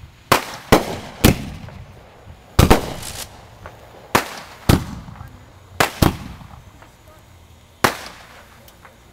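Amateur fireworks going off: about ten sharp bangs at irregular intervals, each trailing off in a short echo.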